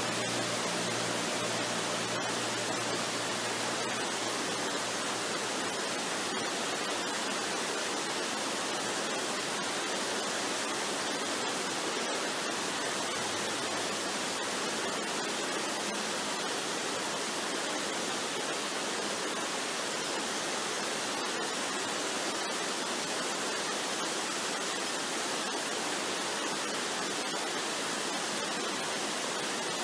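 Waterfall rushing: a steady, even hiss of falling water. A few faint low tones fade out in the first few seconds.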